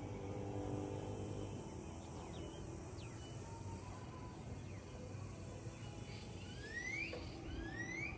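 Birds giving short, rising whistled calls, twice near the end, over a low steady outdoor background.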